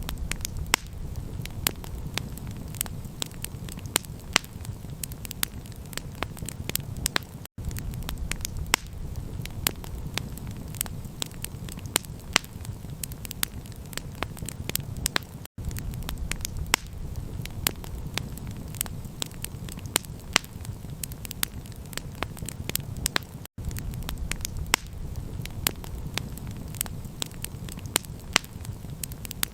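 Campfire crackling, with many sharp pops over a steady low rumble. The sound cuts out for an instant three times, about every eight seconds.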